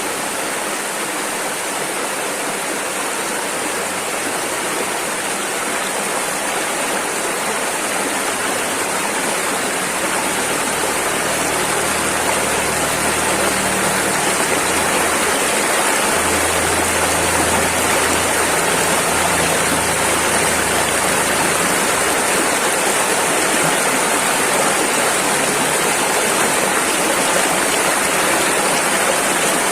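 Rushing river: a steady, dense rush of fast-flowing water that swells slightly about a third of the way in.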